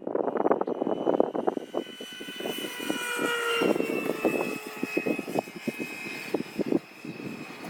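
Whine of a Freewing F/A-18 RC jet's 90 mm electric ducted fan as it flies past, its pitch falling about halfway through. Wind buffets the microphone throughout.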